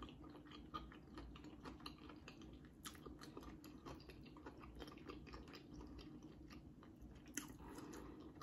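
Faint close-up mouth sounds of chewing fried shrimp: soft, irregular wet clicks and smacks.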